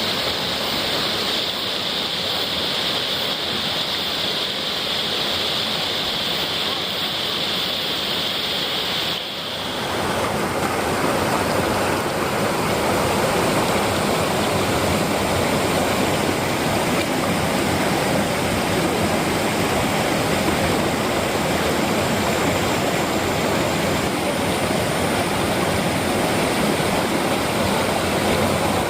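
Waterfall and mountain stream water rushing steadily. About nine seconds in it changes abruptly to a louder, fuller rush.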